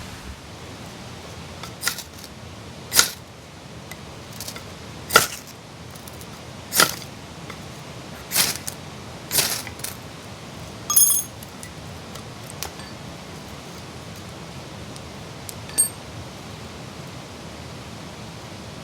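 About nine sharp knocks and short scrapes from hand-tool work on wood, irregularly spaced over the first sixteen seconds, one with a brief metallic ring, over a steady hiss of rain.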